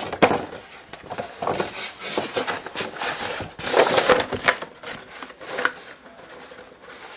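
Cardboard box and packing material being handled: scattered rustles, scrapes and light knocks as a model train car's packaging is put back into its box, busiest about four seconds in.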